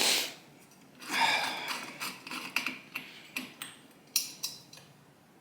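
Metal clinking and scraping as a headlight bucket is worked onto its mounts, knocking against a bolt: a scraping rush at the start and another about a second in, then a run of sharp clicks and knocks.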